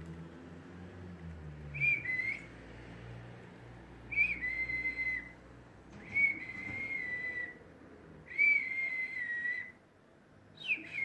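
A person whistling one note five times, about every two seconds. Each whistle starts with a short higher blip and settles into a steady tone held for about a second.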